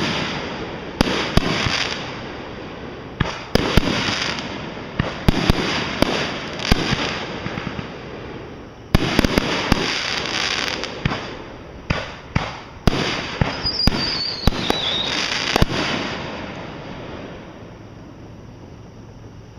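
Fireworks display: a rapid series of sharp aerial shell bangs, each trailing off in echo, with a short falling whistle about fourteen seconds in. The bangs stop about sixteen seconds in and the echo dies away.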